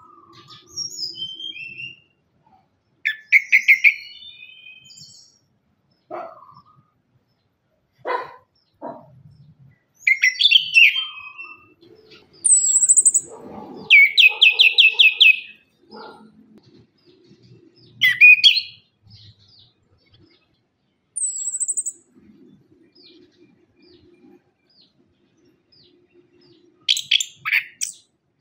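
Chestnut-capped thrush (anis kembang) singing: short, loud whistled phrases with pauses between them, one of them a rapid run of repeated notes.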